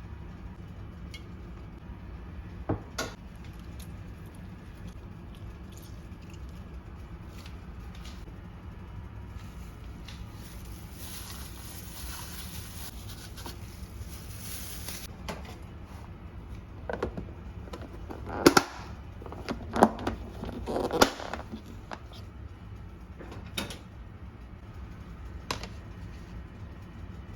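Kitchen handling sounds over a steady low hum: scattered light clicks and knocks, a hiss lasting a few seconds near the middle, then a cluster of louder knocks and clatters.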